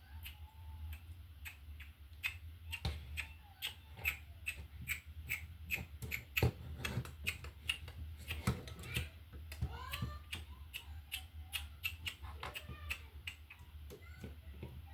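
Plastic Lego pieces clicking and clattering as they are handled and fitted together, a long run of quick, irregular sharp clicks.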